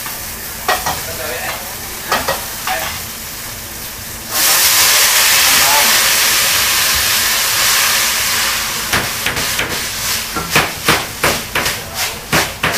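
Food frying in a hot pan: a loud sizzle starts suddenly about four seconds in. Near the end a spatula knocks and scrapes against the pan in quick, repeated strokes.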